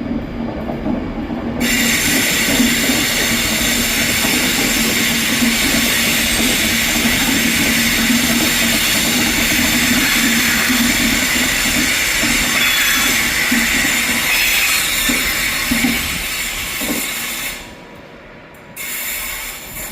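Class 390 Pendolino electric train moving along the platform: a steady hum with loud rushing noise that starts about two seconds in and fades near the end.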